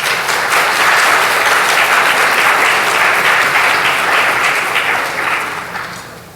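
Congregation applauding at the end of a piano and organ piece, the clapping fading out near the end.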